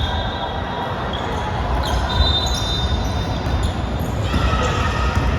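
Basketball game in a gym: the ball bouncing on the court, with short high squeaks of sneakers on the floor over the hall's steady background noise.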